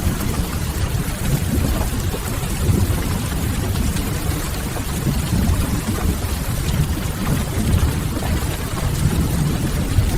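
Steady rain falling, a continuous even hiss with a deep low rumble underneath.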